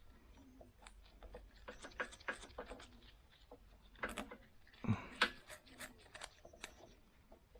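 Scattered light clicks and small knocks of snowblower parts being handled and fitted during a repair, with a few louder knocks about four and five seconds in.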